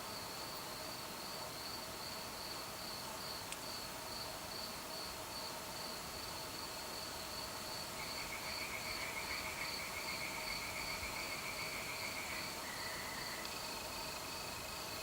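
Crickets chirping in an even, high-pitched rhythm of about three chirps a second. A second insect's faster, lower trill joins about halfway through and changes to a steady buzz near the end.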